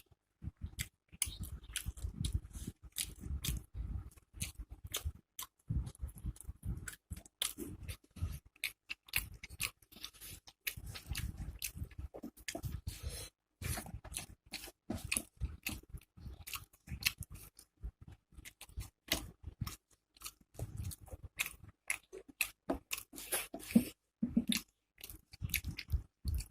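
A person chewing a mouthful of food close to the microphone, with crunches from crisp fried pakoras. Irregular wet clicks and crunches follow one another without a steady rhythm.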